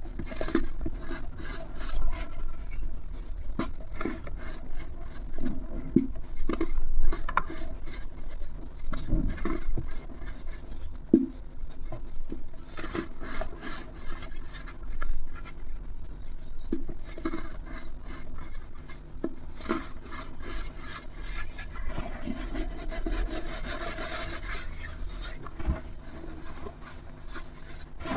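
Dry rubbing and crumbling with many small crackles and clicks over a rough scraping texture, coming in uneven surges.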